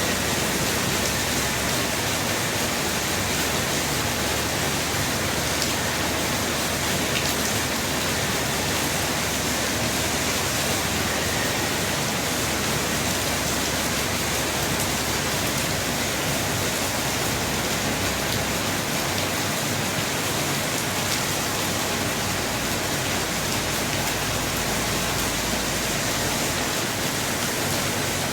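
Heavy rain falling steadily: an even, unbroken hiss with fine scattered drop ticks.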